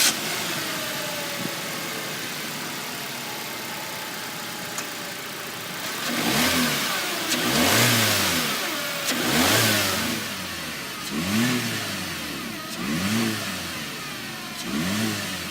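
2018 Chevrolet Spark's 1.4-litre inline four-cylinder engine idling steadily, then revved about six times in quick succession, each rev rising and falling back to idle.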